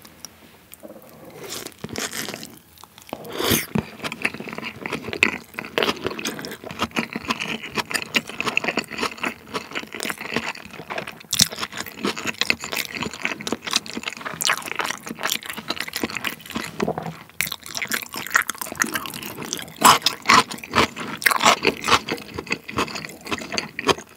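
Close-miked chewing of a large raw-salmon nigiri with sauce, a dense run of wet mouth clicks and smacks starting about a second in.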